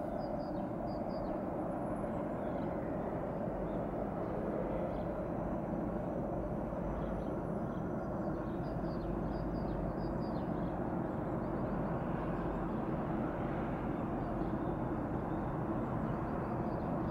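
2TE10M diesel locomotive's 5D49 V16 turbocharged diesel engines working under load as it hauls a freight train up a grade: a steady, even drone.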